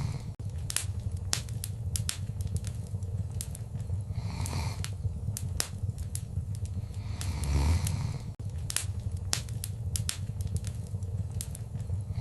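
Wood fire crackling: frequent sharp pops and snaps over a steady low rumble of flames, with a soft rush of flame swelling about four seconds in and again near eight seconds.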